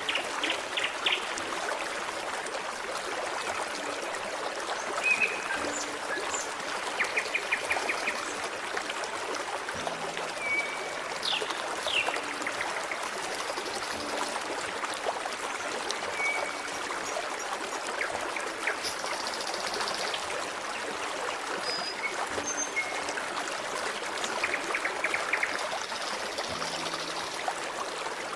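Forest stream running and trickling steadily, with small birds singing over it: short whistles, chirps and quick trills every few seconds.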